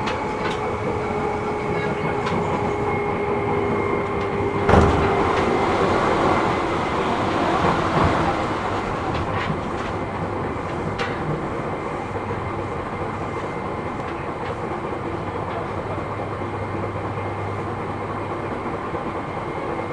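Running noise inside a Seibu New 2000 series electric train at speed: steady wheel-on-rail rumble with a motor tone. A sharp knock comes about five seconds in, followed by a few seconds of louder rushing noise before the run settles again.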